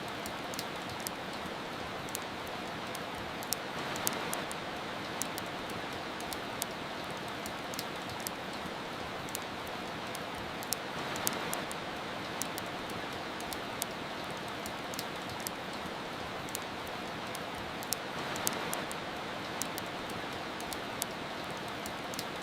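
Steady rain hiss with the sharp, irregular pops and crackles of a wood fire, several a second. The rain swells briefly about three times, roughly seven seconds apart.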